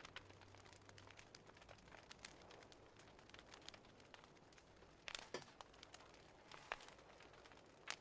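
Faint wood fire crackling: irregular small snaps and pops, with a few louder pops about five, six and a half, and eight seconds in.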